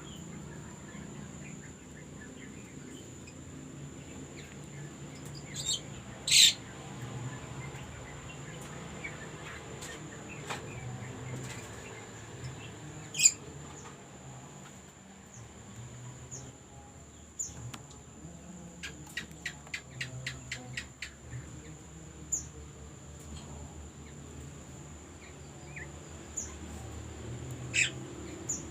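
Songbird calls: a few sharp, scattered chirps and, midway, a quick rattling run of about a dozen short notes, over a steady high-pitched whine.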